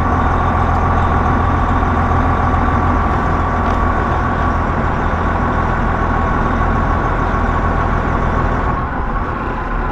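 Semi-truck diesel engine running steadily, a continuous low rumble with a thin steady whine above it, heard from inside the cab. The loudness dips slightly near the end.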